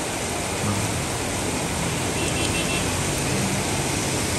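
Heavy rain falling on a street, a steady hiss with no let-up. Under it runs the low hum of an auto-rickshaw's engine as it drives through.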